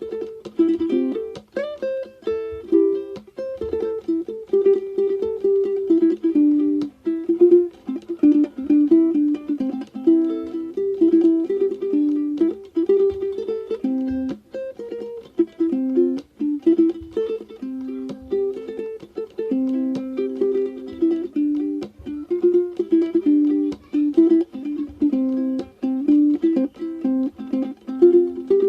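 Background music: a light, bouncy plucked-string tune, ukulele-like, playing throughout.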